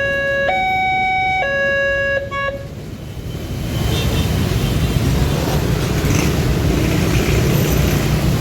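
Level-crossing warning alarm sounding a two-tone hi-lo call, switching between the two notes about once a second, then cutting off about two and a half seconds in. Road traffic noise then swells up and continues.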